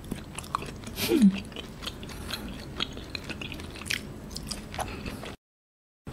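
Close-up mouth sounds of chewing thin slices of grilled wagyu beef: soft wet clicks and smacks scattered throughout, with a short falling hum about a second in. The sound cuts out completely for a moment near the end.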